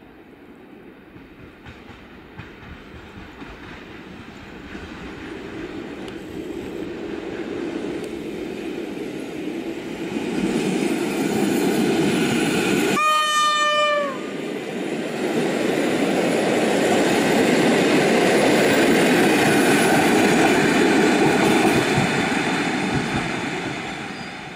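EN57 electric multiple unit approaching and passing, its rail and running noise building steadily to a loud peak and falling away near the end. A single horn blast of about a second sounds about halfway through.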